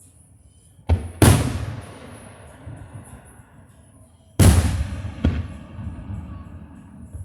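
Aerial fireworks shells bursting close by: a sharp crack and then a big boom about a second in, and another big boom about four and a half seconds in followed by a smaller crack. Each boom trails off in a long rumbling echo.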